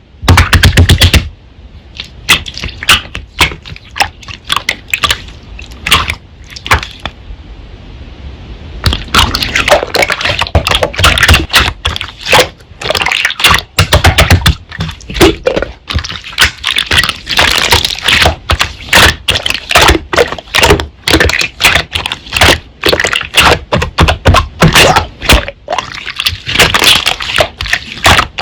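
Slime being squished and pressed by hand, making sticky clicks and crackling pops of trapped air. The clicks are sparse at first, then come fast and dense from about a third of the way in.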